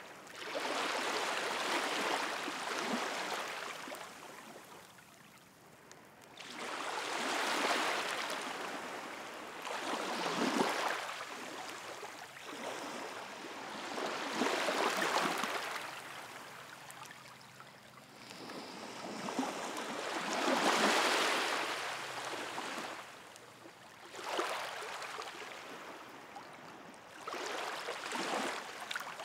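Sea waves washing onto the shore, the rush of water swelling and fading again about every four seconds, with a bonfire crackling underneath.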